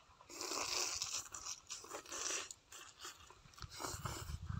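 A person chewing a mouthful of grilled squid close to the microphone, in two spells of chewing, the second near the end.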